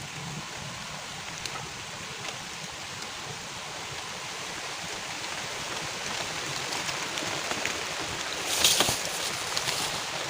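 Heavy rain falling, an even hiss that grows a little louder, with a short louder rustle about eight and a half seconds in.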